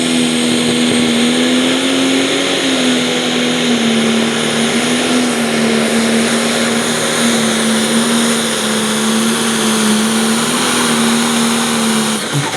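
Pro stock pulling tractor's turbocharged diesel engine running flat out under load down the track. It is a loud, steady, high-revving drone whose pitch sags slightly as the sled bears down, and it stops shortly before the end.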